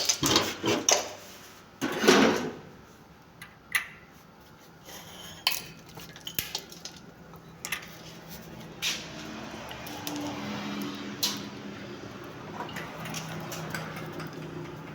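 Clinks and clatter of hard objects, loudest in the first two seconds, then scattered single knocks, with a faint steady hum starting about ten seconds in.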